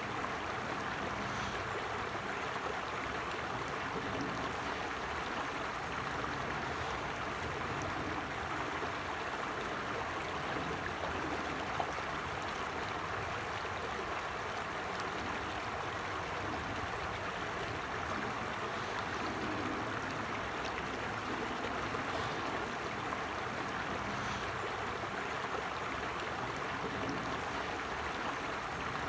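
Creek water flowing steadily, an even, continuous rushing sound.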